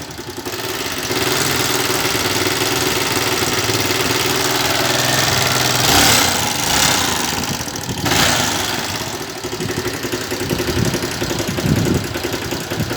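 Motorcycle engine running with a strong knocking noise from inside it, louder briefly about six and eight seconds in. The owner suspects the cam chain or the connecting rod, since the noise remains with the valve clearances already adjusted.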